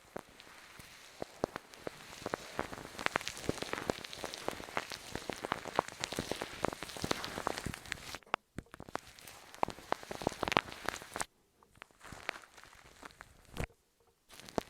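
Dense crackling and clicking close to the microphone, like pattering rain. It stops briefly about eight seconds in, then returns in sparser bursts.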